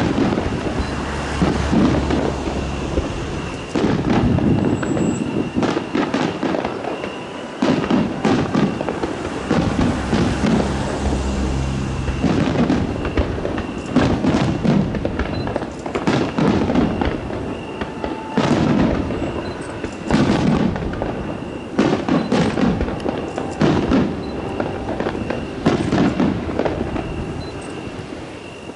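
Aerial fireworks shells bursting in a steady run of booms with crackle, one every second or two.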